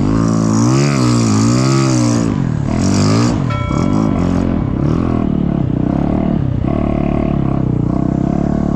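Snow bike engine revving up and down several times, then running at a steadier, lower pitch with a regular pulsing beat for the last few seconds.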